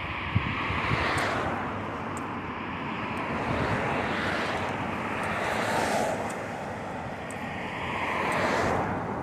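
Road traffic passing: about three vehicles swell up and fade away, over a steady rush of wind on the microphone from riding.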